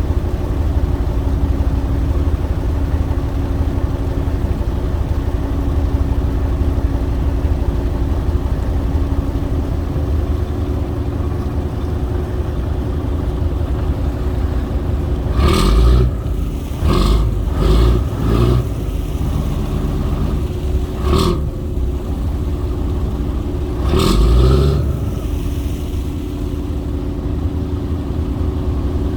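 Boat engine running steadily with a low hum. Several short, louder bursts cut in around the middle.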